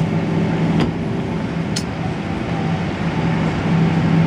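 Steady low hum of an MTR C-Train standing at a station platform with its doors open, with two short clicks about one and two seconds in.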